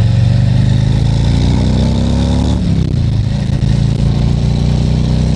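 Harley-Davidson Tri Glide Ultra's Milwaukee-Eight 114 V-twin engine pulling under acceleration. Its pitch rises for about two and a half seconds, drops at a gear change, and then runs on steadily under wind noise.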